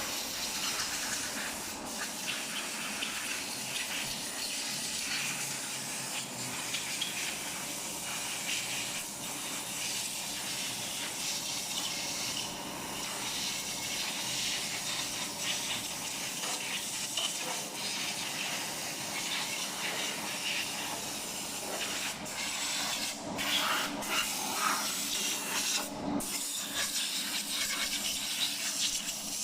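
Steady hiss of a spray jet washing down an engine, with a few brief breaks and louder spurts near the end.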